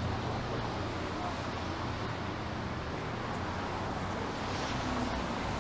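Steady city street traffic noise, tyres hissing on wet pavement, with a vehicle's low engine rumble fading away at the start.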